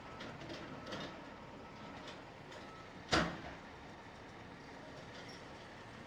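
Heavy demolition machinery running steadily with a few clanks, and one loud bang about three seconds in, typical of concrete rubble or steel being handled and dropped.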